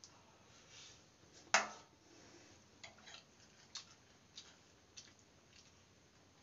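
A person chewing a mouthful of vegetable biryani: faint, scattered mouth clicks, with one sharper click about one and a half seconds in.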